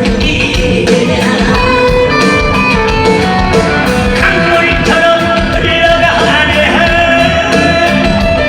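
A Korean folk singer (sorikkun) singing long held notes over instrumental accompaniment with guitar.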